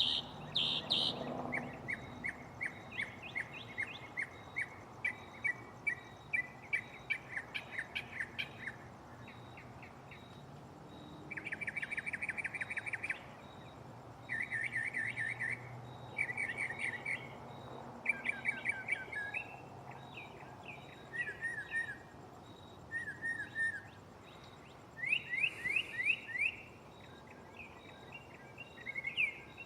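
Northern mockingbird singing its mimicked catalog: a string of varied phrases, each a note or chirp repeated several times before switching to a new pattern, with short pauses between phrases.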